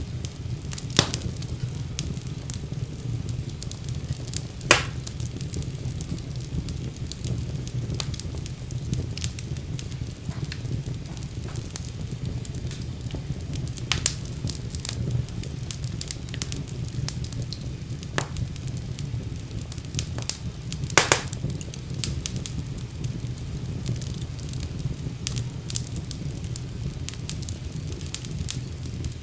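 Wood fire burning in a fireplace: a steady low rumble of flames with constant crackling, and a few louder pops about a second in, around five, fourteen and twenty-one seconds in.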